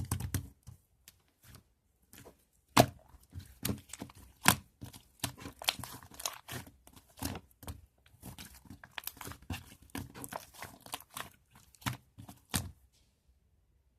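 Irregular crackling and crinkling handling noises, a rapid uneven run of sharp clicks with a few louder snaps, stopping near the end.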